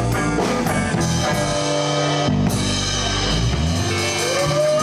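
Live blues band playing the closing bars of a song: guitar lines over bass and drums, with drum hits early on and a guitar string bend near the end.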